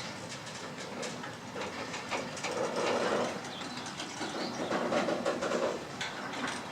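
Rail vehicle running on track: a steady rolling noise with irregular clacks and knocks from the wheels, swelling twice in the middle.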